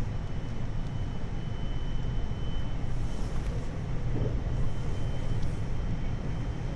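Steady running noise inside a 521 series electric multiple unit, a low rumble of wheels on the rails, with a faint steady high tone.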